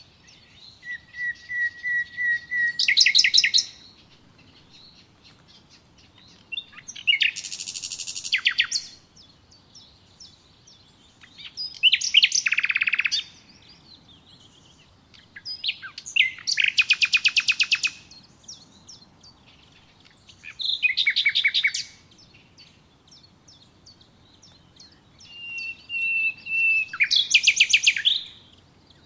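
A songbird singing the same kind of short song over and over, six songs a few seconds apart. Each is a run of repeated notes that ends in a loud, fast, high trill.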